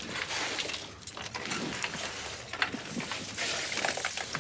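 Irregular scraping and clicking of boots and gear as people clamber over ice, over a steady hiss.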